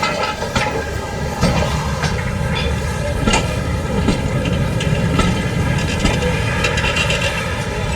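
Railway train running past, its wheels clicking over the rail joints over a steady rumble.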